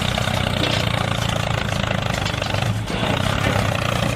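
An engine running steadily with an even, fast firing rhythm, like a tractor engine at idle.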